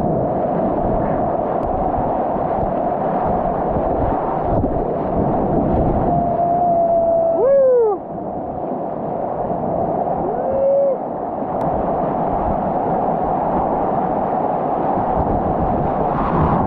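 Whitewater rushing steadily around a kayak as it runs a river rapid. About halfway through there is a brief wavering tone that rises and falls, and a shorter one follows a few seconds later.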